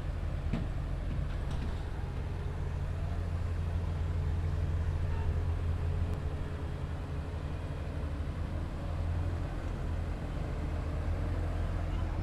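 Heavy earthmoving machine's diesel engine running steadily with a deep, low drone, with a few faint knocks in the first couple of seconds.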